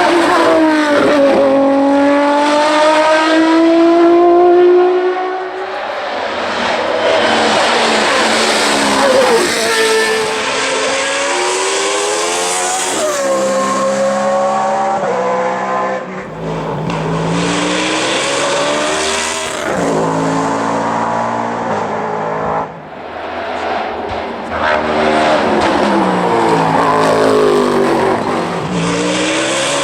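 Hill-climb race cars running flat out, one after another, each engine revving high. The pitch climbs through each gear and drops back at every shift.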